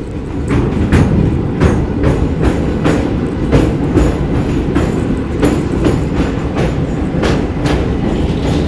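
Passenger train running over a steel truss river bridge: a heavy rumble with wheels clacking over rail joints, two to three clacks a second.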